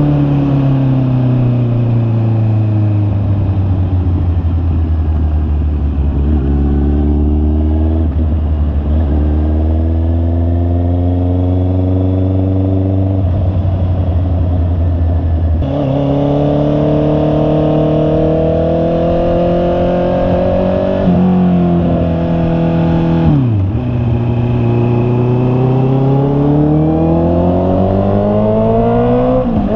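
Honda CB650R's inline-four engine heard from the bike while riding. The revs fall through the first half with a couple of sudden steps in pitch at gear changes. About halfway through the throttle opens and the engine gets louder and climbs through the revs, with a sharp dip and recovery about three-quarters of the way in.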